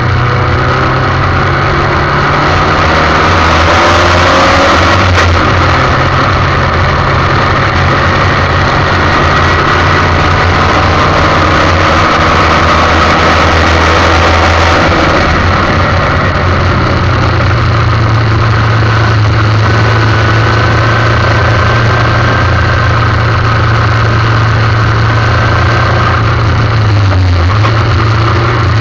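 Formula 1600 race car engine running hard and loud without a break, its pitch shifting up and down with throttle and gear changes, with a short dip in pitch near the end.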